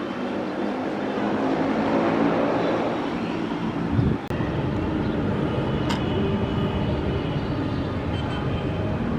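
Steady engine noise that swells about two seconds in, with a low thump about four seconds in.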